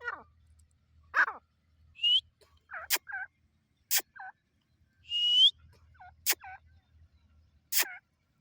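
Grey francolins (teetar) calling: several short hooked notes, two rising whistles about two and five seconds in, and four sharp clicking notes scattered through, over a faint low hum.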